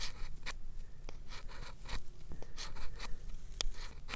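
Ferrocerium fire-starter rod scraped in short strokes, about two a second, to throw sparks onto a pile of tinder.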